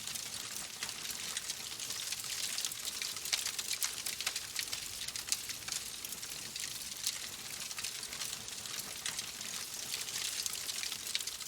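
Wood fire crackling in a fireplace: a steady hiss dotted with many small, sharp pops.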